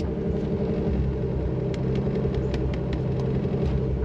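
Pontiac Grand Am GT's engine running steadily at cruise, a low drone and rumble.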